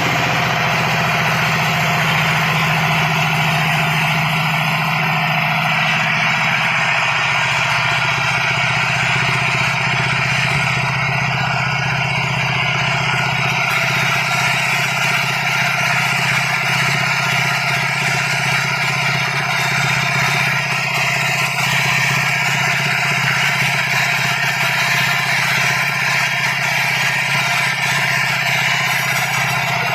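Diesel-engine-driven wood sawmill running steadily, with a constant engine hum under a loud, even mechanical noise.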